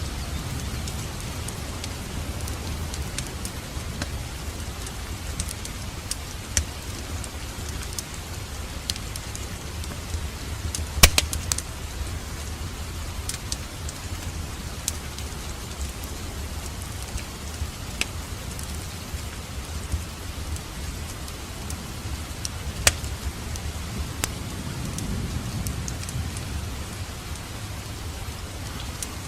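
Wood fire crackling in a fireplace: a steady low rumble of flames with scattered sharp pops and snaps, the loudest about 11 seconds in and another near 23 seconds.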